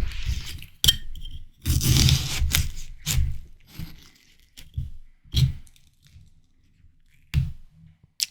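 Ripe watermelon being bitten and chewed close to the microphone: crisp, wet crunching in irregular bursts. The longest and loudest comes about two seconds in, followed by shorter, softer chews, with a sharp click near the end.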